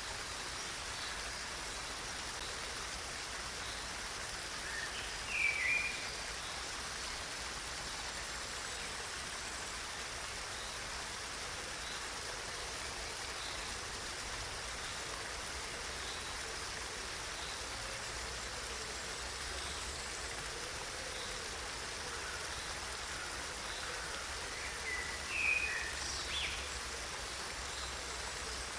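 Water flowing steadily in a stream, an even rushing hiss. Two short chirps rise above it, one about five seconds in and another near the end.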